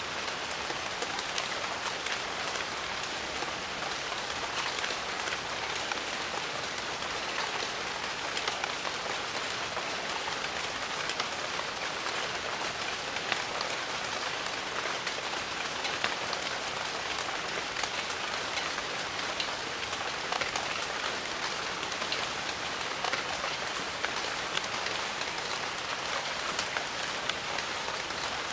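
Steady rain falling on foliage and surfaces, a dense even hiss with many individual drops ticking through it.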